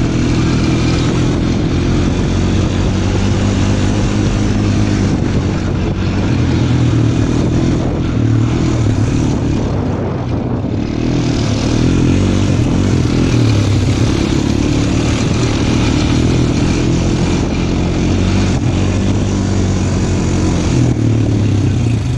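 Small off-road vehicle engine running steadily while riding, with rushing wind and terrain noise. The engine eases briefly about halfway through, then picks back up.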